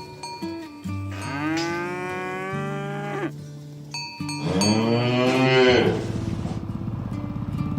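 Cows mooing: two long moos, one about a second in and another at about four and a half seconds, each with a sliding pitch, over lower lowing from the herd.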